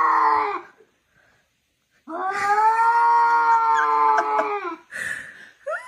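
A pet's long, drawn-out howls: one ends just under a second in, and after a short silence a second one is held steady for nearly three seconds. Short calls follow near the end.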